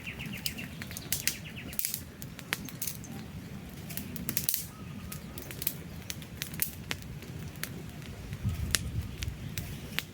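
Wood campfire burning, with frequent irregular sharp snaps and pops over a low rush of flames. A rapid bird trill ends in the first moment.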